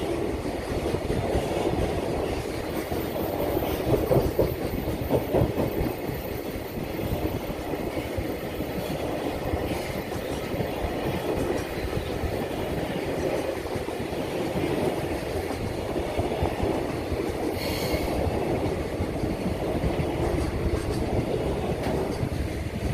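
Freight train wagons rolling past on the rails: a steady rumble of wheels on track with faint rhythmic clatter.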